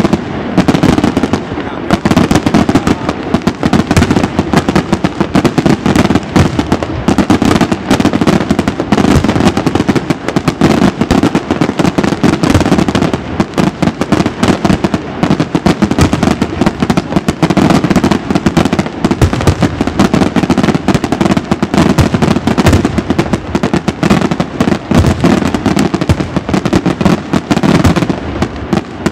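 Daytime aerial fireworks: a loud, continuous barrage of shells and firecrackers bursting in rapid succession, the bangs packed so closely that they run together without a pause.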